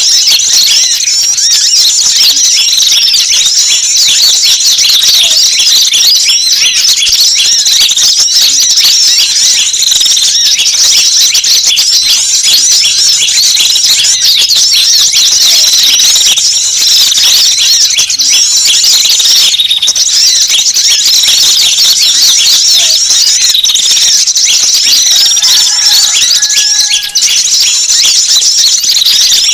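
Dense, unbroken high-pitched chirping and twittering of many small birds at once: a mixed recording of wild small-bird calls played as a lure to draw in wild birds.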